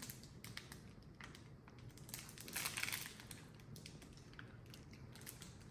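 A person chewing a very hard toffee: faint crunching and clicking, louder for a moment about halfway through.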